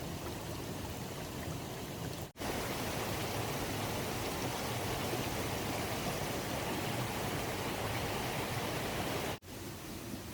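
Steady rush of running water, breaking off abruptly twice and coming back slightly louder between the breaks.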